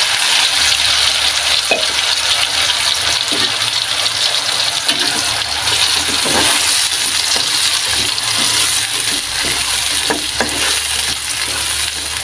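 Blended chilli, shallot and garlic spice paste sizzling in hot oil in a wok, stirred with a metal spatula that scrapes and clicks against the pan now and then.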